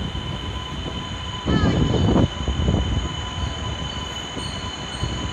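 Tohoku Shinkansen train running through the station at high speed: a steady rushing noise with a high, steady whine, and a louder surge about one and a half seconds in.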